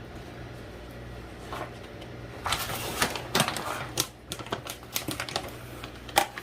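A quick, irregular run of sharp clicks and clattering, like hard kitchen objects knocking together, starting about halfway through, over a steady low hum.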